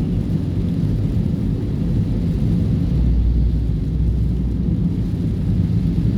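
Steady low rumble of engine and tyre noise heard inside a car driving on a highway, swelling a little in the deepest range about halfway through.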